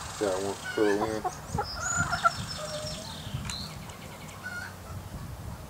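Birds calling: two short, low clucking calls in the first second or so, then thinner high chirps.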